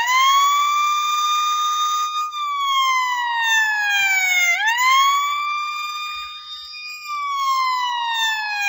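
Emergency-vehicle siren wailing: its pitch sweeps up quickly, holds high, then slides slowly down, going through this cycle about twice before stopping abruptly.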